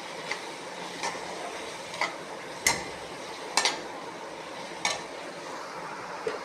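Onion-tomato masala sizzling in a pan while a spoon stirs it, knocking against the pan about once a second.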